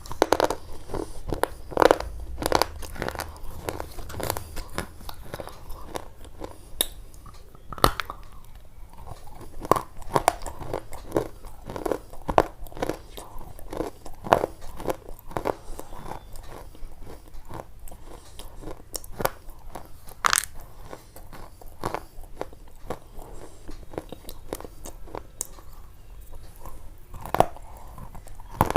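Close-up crunching and chewing of crisp food: irregular crunchy bites and crackles, several a second, with a few sharper snaps.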